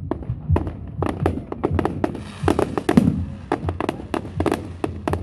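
Firework display: a rapid, irregular run of sharp bangs from bursting shells, with a dense crackling burst about two to three seconds in.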